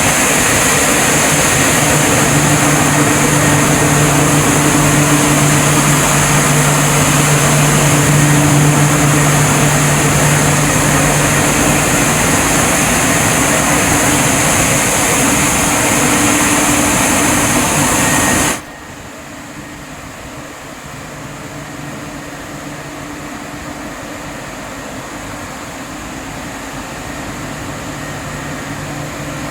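Leisuwash 360 touchless car wash machine running: its high-pressure water jets spraying with a loud, steady hiss over a pump hum. About two-thirds of the way through, the spraying cuts off suddenly, leaving a quieter steady machine hum.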